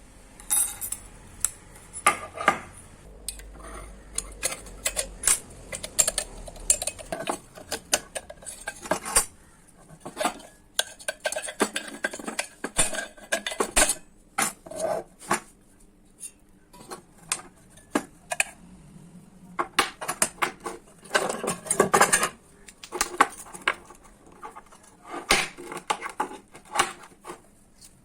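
Irregular metallic clinks, taps and knocks as a microwave oven magnetron is handled and taken apart by hand to free its magnets, busiest in short flurries with a sparser stretch in the middle.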